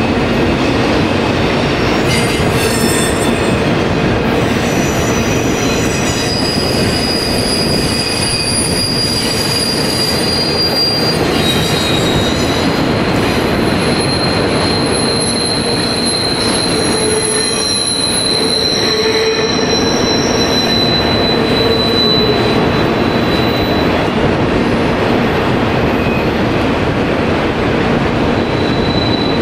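Freight train of autorack cars rolling steadily past, a continuous rumble of wheels on rail. High-pitched wheel squeal comes and goes over the rumble.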